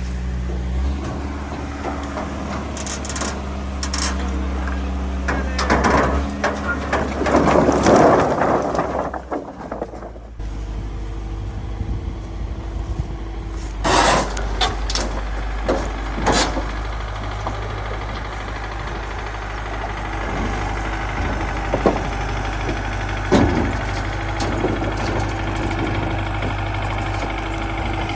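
A vehicle engine running steadily, with scattered knocks and clatter over it; the engine sound drops out briefly about ten seconds in, then resumes.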